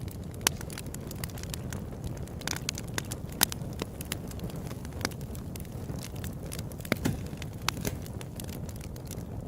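Open-air wood campfire burning: a steady low rumble of flames with sharp, irregular crackles and pops, a few louder snaps about half a second in, around three and a half seconds, and near seven seconds.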